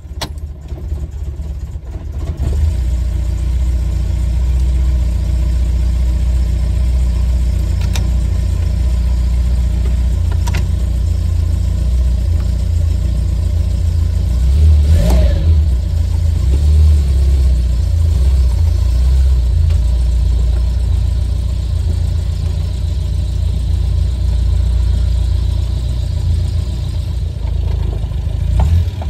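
The Triumph Spitfire Mk3's four-cylinder engine runs steadily as the car pulls away and drives off on a test drive of its refitted gearbox, heard from inside the open cabin. There is a brief clunk about halfway through.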